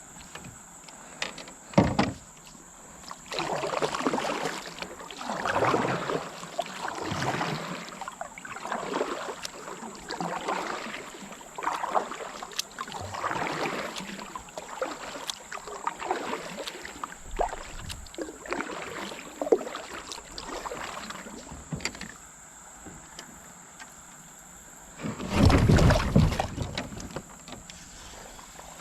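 Kayak paddle strokes swishing through the water, one about every one and a half to two seconds. Near the end comes a louder, deeper rush lasting a second or so.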